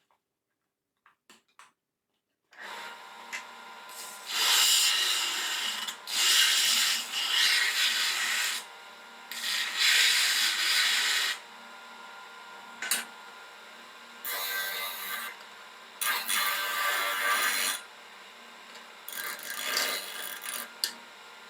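Metal being worked with an abrasive tool in repeated rasping passes of one to two seconds each, over a steady motor hum that starts about two and a half seconds in.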